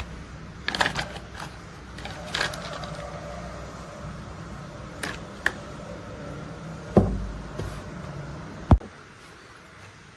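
Plastic toy construction vehicles being handled: scattered clicks and short scrapes over a low rumble. Two heavier knocks come near the end, the second one loudest, and the rumble stops right after it.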